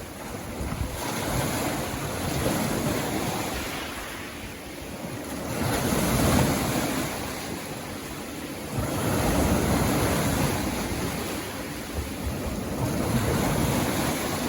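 Sea waves breaking on a beach and washing up the shore, the surf swelling and easing in surges about every three to four seconds.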